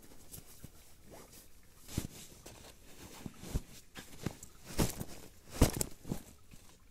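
Camping gear being packed: rustling fabric and zipper pulls, broken by a few sharp knocks and clacks, the loudest a little past the middle.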